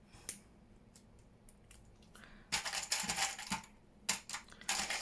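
Small metal clips clinking and rattling as they are picked up and handled, in a clatter about two and a half seconds in and again near the end.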